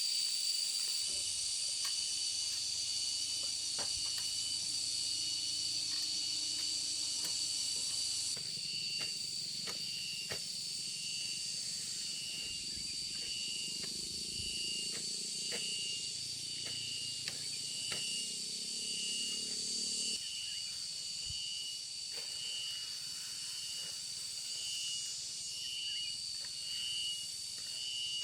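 Insects calling in a steady chorus: one holds a continuous high whine while another pulses a little more than once a second. Faint scattered clicks sound underneath.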